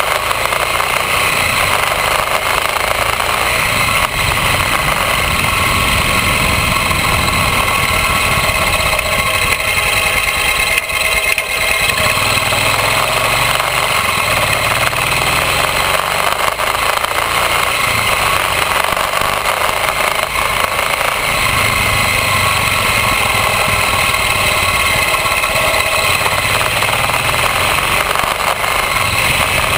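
Royal Enfield motorcycle engine running steadily, picked up by a camera mounted on the bike's crash bar.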